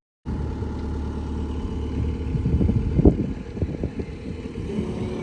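A farm vehicle's engine running steadily, with a cluster of knocks and rattles about halfway through.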